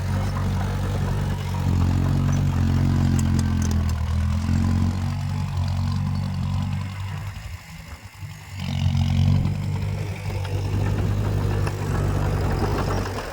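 Heavy diesel engine of earthmoving machinery running with a deep, steady drone. The engine note falls away briefly a little past the middle, then comes back up strongly about nine seconds in.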